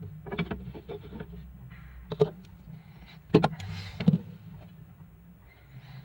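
Several sharp knocks and clicks, a few seconds apart, over a steady low hum.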